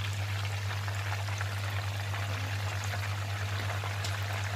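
Whole marinated chicken shallow-frying in oil over a low flame, the oil bubbling gently with a steady sizzle of fine crackles. A steady low hum runs underneath.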